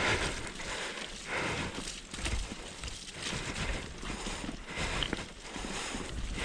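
Mountain bike rolling over a rough dirt trail: steady tyre and wind noise with irregular knocks and rattles as the bike goes over bumps.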